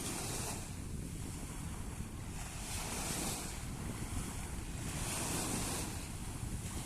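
Sea waves washing in, a hissing surge about every two and a half seconds, with wind rumbling on the microphone.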